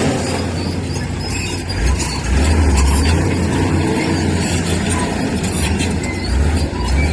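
Heavy diesel earthmoving machinery running and working, a deep low rumble that swells about two seconds in.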